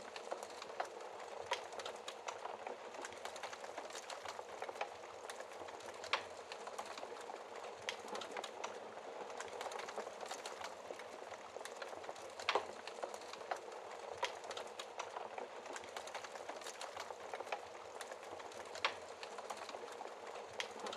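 Wood logs burning in a fireplace, crackling constantly with a few louder pops, over a steady hiss of rain.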